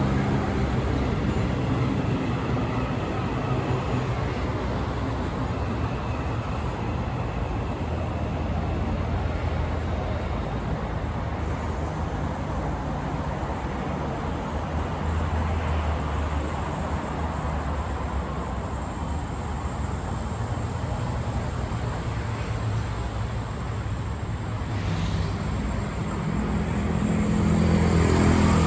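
KTMB ETS electric multiple-unit train running at the station platform: a steady low rumble and hum that swells louder near the end.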